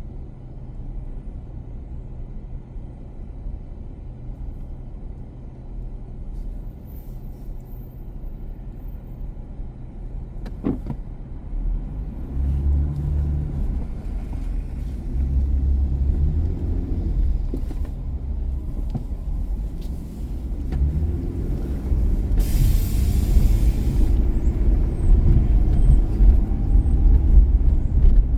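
Car engine and road noise while driving, a steady low rumble that grows louder in steps through the second half. A sharp click comes a little before the middle, and a short hiss sounds a few seconds before the end.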